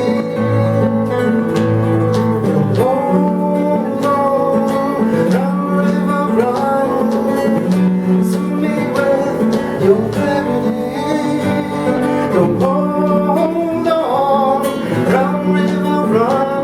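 Contreras M-1 studio guitar fingerpicked in a steady flowing pattern of plucked notes over a repeating bass line, a solo acoustic guitar passage.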